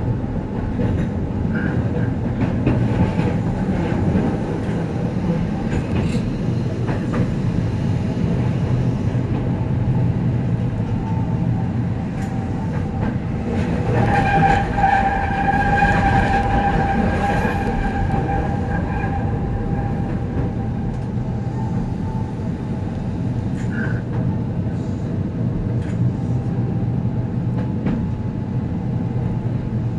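Keihan 800 series electric train running, heard from inside the cab: a steady low rumble with scattered clicks of the wheels over rail joints. A high ringing tone sounds for about five seconds around the middle.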